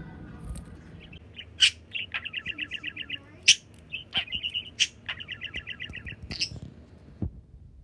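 Pet budgerigar chirping: two runs of rapid repeated chirps, about ten a second, mixed with several sharp, loud chips, falling quiet near the end.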